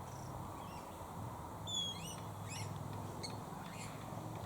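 Wild birds chirping and calling in the background, with a quick run of short high chirps and whistles a couple of seconds in, over a faint steady low hum.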